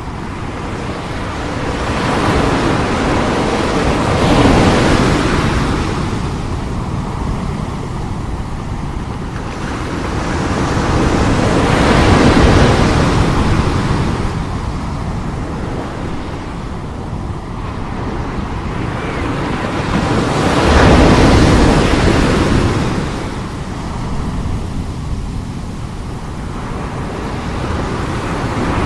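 Strong sea waves breaking and rushing on the shore. The surf swells three times, about eight seconds apart, each surge building and then easing off.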